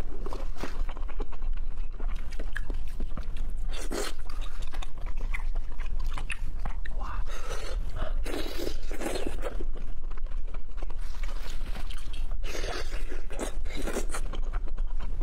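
Close-miked eating: a person biting and chewing skewered seafood, with crunching in irregular bursts.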